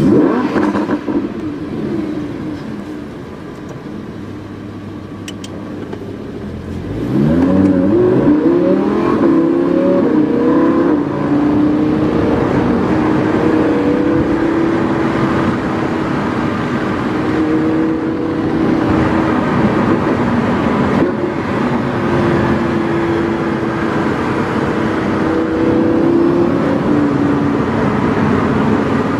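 Lamborghini Huracán's V10 through a PowerCraft aftermarket exhaust, heard onboard: running quieter for the first several seconds, then accelerating about seven seconds in with the engine note climbing in pitch. After that it holds a steady drone.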